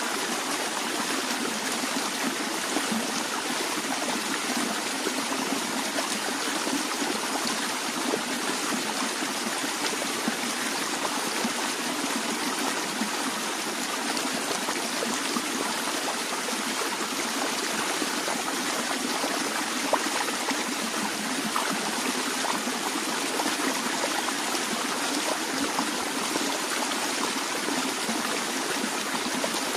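Stream water flowing steadily over rocks: an even rushing with small splashes and trickles throughout.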